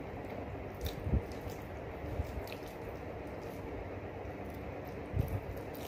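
Close eating sounds: wet chewing and lip smacks of a mouth working on chicken pieces, with a few short clicks over a steady low hiss.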